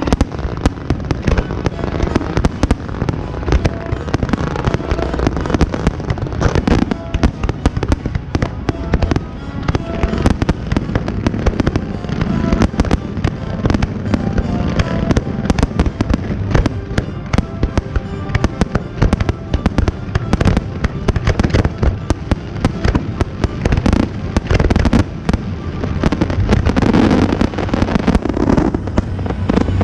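A fireworks display set to music: a dense run of bangs and crackles goes on without a break, over music with a steady bass.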